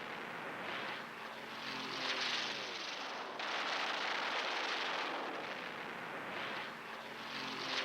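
Piston-engined propeller aircraft in flight, a steady engine roar whose pitch falls as it passes, about two seconds in and again near the end.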